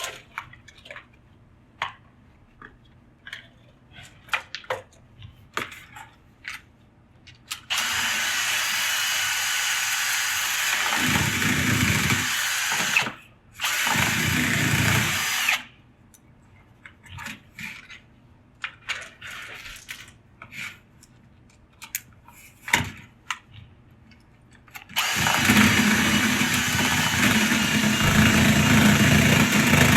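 Power drill spinning a rotary brush through a dryer vent duct to clear out lint. It runs in long steady stretches about eight seconds in, again just after, and from about 25 seconds on, with clicks and knocks of handling in between.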